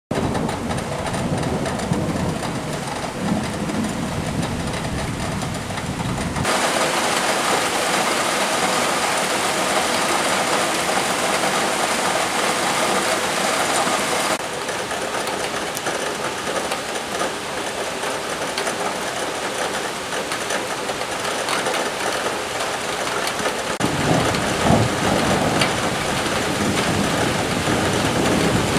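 Heavy rain of a thunderstorm pouring steadily, its sound changing abruptly about six and fourteen seconds in. A low rumble runs under it in the first few seconds and again near the end.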